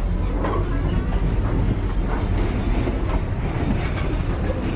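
Steady low rumble of a moving passenger rail car on the Napa Valley Wine Train, heard from inside the car: wheels running on the track.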